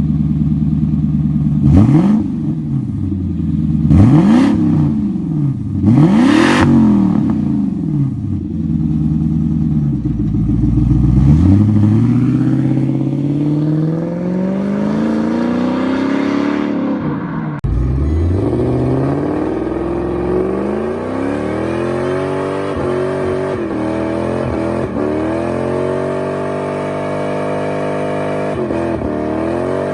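Lexus 1UZ-FE four-litre twin-cam V8 revved in three quick blips, then pulling up through the revs in a long rising note that breaks off suddenly. The engine then runs on with its pitch rising and falling more gently.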